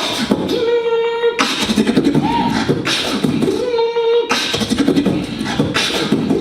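Solo beatboxing: a fast run of vocal drum hits, with a hummed tone held over the beat for about a second at a time, several times.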